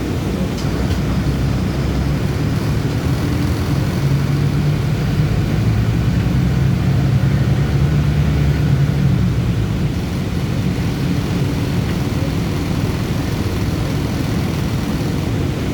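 City bus engine running as the bus drives: a steady low drone that grows stronger about four seconds in and eases off around ten seconds in.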